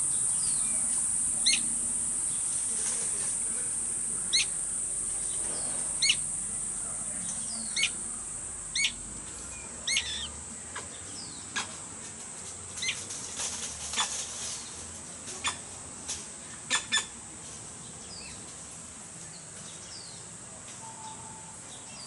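Short, sharp high bird chirps, one every second or two and then in quicker clusters later on, over a steady high-pitched hiss that slowly fades.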